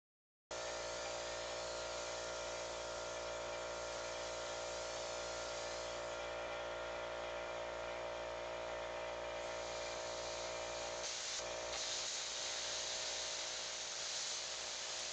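Plasma cutter running: a steady hum with a hiss over it. About eleven to twelve seconds in, the hiss turns louder and brighter.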